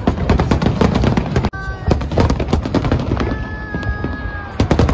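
Aerial fireworks bursting in a dense, rapid run of bangs and crackles, with a brief sudden break about a second and a half in. A steady held tone sounds over the bursts for about a second past the middle.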